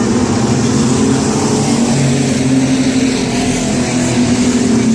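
Race trucks' engines running together on a speedway, a loud steady drone of several engines at once whose pitches drift slightly up and down.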